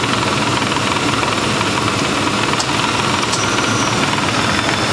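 1995 Lincoln Town Car's 4.6-litre V8 idling steadily with the air conditioning switched on, so that the compressor draws in the refrigerant being charged.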